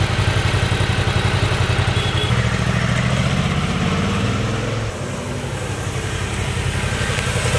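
Suzuki V-Strom 650's V-twin engine running as the bike is ridden. The engine note steps up about two seconds in and drops back about five seconds in.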